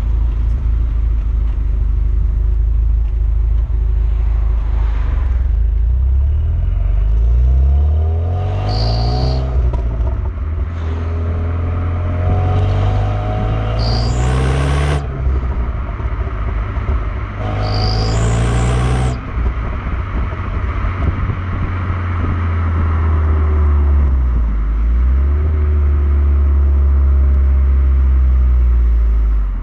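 Renault Mégane R26's turbocharged 2.0-litre four-cylinder engine accelerating through the gears: three rising pulls, each cut off by a gear change, then steady running at a constant pitch.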